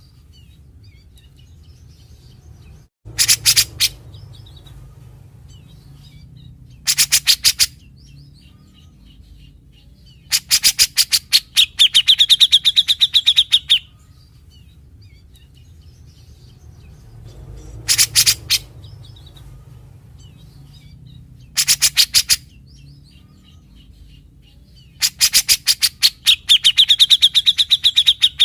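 Grey-cheeked bulbul (cucak jenggot) calling in repeated bouts of rapid, stuttering sharp notes, its typical 'besetan'. There are six bouts, some short, the longest lasting about three seconds, with faint chirps between them.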